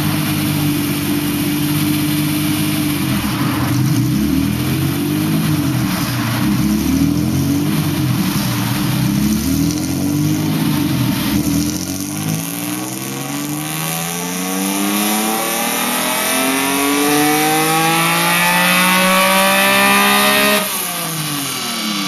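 Honda NSX V6 running through a catless, lightweight stainless single-exit muffler that merges both banks, with a high-pitched exhaust note. Engine speed wanders at lower revs at first, then climbs steadily under load for about eight seconds and drops away sharply near the end.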